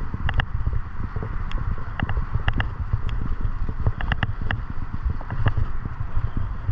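Riding a bicycle: a steady low rumble of wind and rolling noise, with irregular sharp clicks and rattles several times a second.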